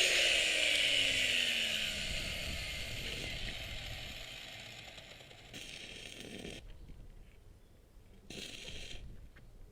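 A power tool's motor spinning down after being switched off, its pitch falling and fading over about two seconds. Two short bursts of mechanical noise follow, about five and eight seconds in.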